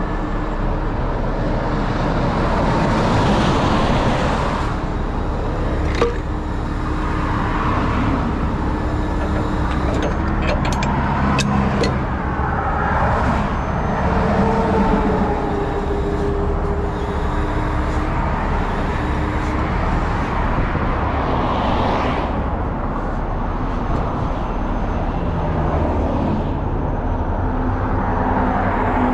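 Vehicle engine and road traffic noise with a steady low rumble, broken by a few sharp clicks about six seconds in and again around eleven to twelve seconds.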